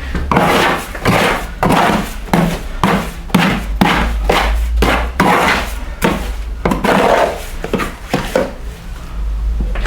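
Wet cement mortar being worked by hand with a tool: a dozen or so short scraping strokes, roughly one and a half a second, the mix mixed thin and runny.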